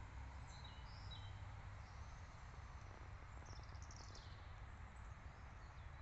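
Faint outdoor ambience: a few short bird chirps near the start and a quick run of them about halfway through, over a low steady rumble.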